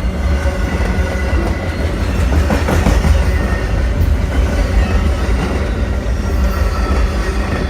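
Train passing close by: a loud, steady rumble of rail cars rolling over the track, unbroken through the whole stretch.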